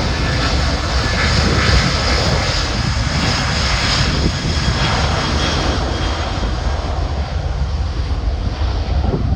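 Jet airliner's engines passing close by with a loud, rushing roar and a deep rumble underneath; the high hiss of the roar fades toward the end as the plane moves away.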